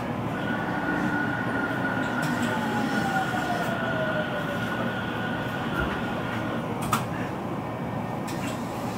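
Interior running sound of a 313 series electric train: steady rumble of wheels on rail with a high whine. A tone from the traction motors falls in pitch as the train slows. A sharp click comes about seven seconds in.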